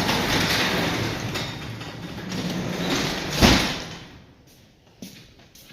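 Garage door rolling down with a long rumble for about four seconds, ending in a loud thud as it shuts.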